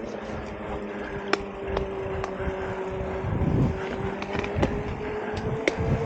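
Mountain bike rolling along a woodland trail: a steady hum that rises slightly in pitch, sharp clicks and knocks from the bike over bumps, and rumbling wind on the microphone.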